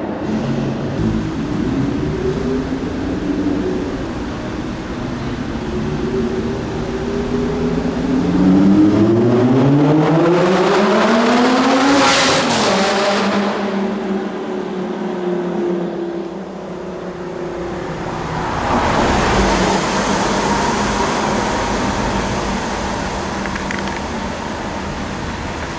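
Lamborghini supercar engine running, then accelerating away: the engine note climbs steadily for several seconds to a loud peak as the car passes, then falls away. A second, noisier swell of car sound follows later.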